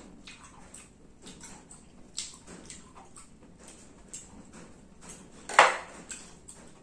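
Chewing and lip-smacking, with small wet mouth clicks, while eating gonggong snail meat. About five and a half seconds in there is one loud clink as a ceramic bowl is set down on a glass tabletop.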